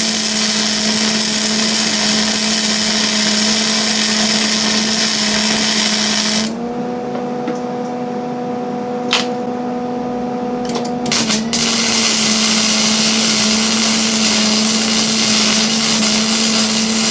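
Hand-held electric grinder working on steel, its motor whine steady under a loud grinding hiss. Partway through it is lifted off the metal for about four seconds: the hiss drops out and the motor runs free at a slightly higher pitch, with a few clicks, before it bites into the metal again.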